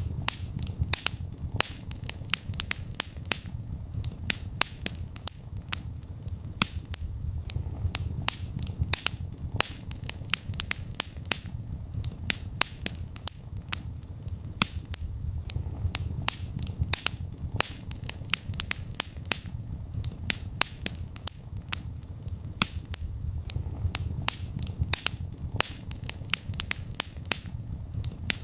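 Wood fire burning in a fireplace: a steady low rumble of flames with frequent sharp, irregular crackles and pops, several a second.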